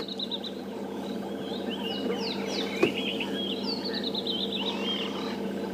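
Small wild birds calling in the bush: many short sliding chirps and whistles, some in quick repeated runs, over a steady low hum.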